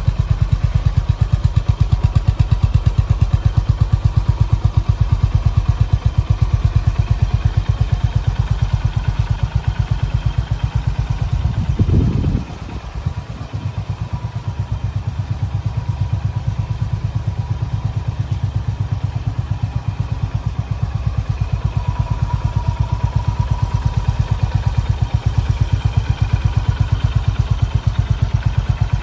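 Honda GB350's air-cooled single-cylinder engine running at a steady idle with even, regular firing pulses. About twelve seconds in there is a short surge, and the engine runs a little quieter for a second or two before settling back.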